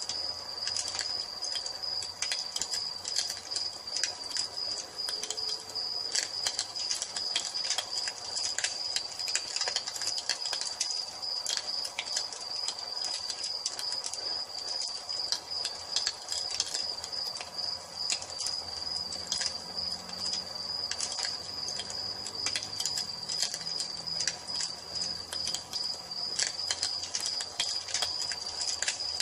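Wood fire crackling with frequent irregular sharp pops, over the steady high trill of crickets.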